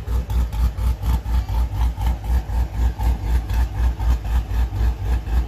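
LS3 V8 with a BTR Stage 4 turbo cam idling with a choppy lope, pulsing about four times a second, through long-tube headers and Flowmaster FX mufflers.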